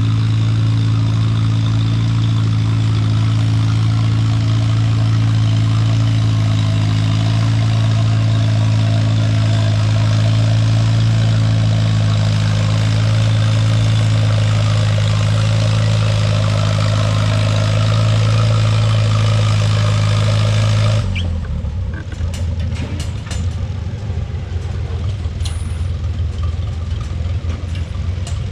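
Antique farm tractor engine running at a steady, unchanging pitch, as under load on a pull. About three quarters of the way through, the sound changes abruptly to a rougher, lower engine idle with scattered clicks.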